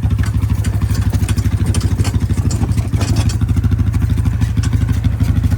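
A small engine running steadily and close by, its even, rapid firing pulses unbroken throughout, with light clatter on top.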